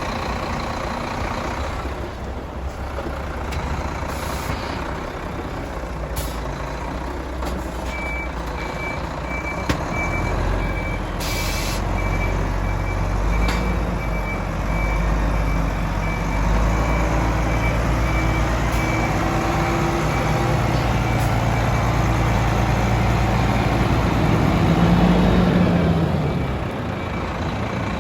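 Garbage truck's diesel engine running, with its reversing beeper sounding evenly spaced high beeps from about a third of the way in. A short air-brake hiss comes just after, and the engine then runs louder before easing off near the end.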